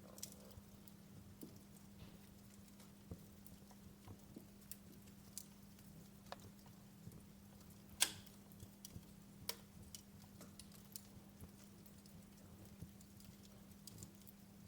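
Wood fire crackling in a fireplace: sparse, irregular pops and snaps, one sharper pop about eight seconds in, over a steady low hum.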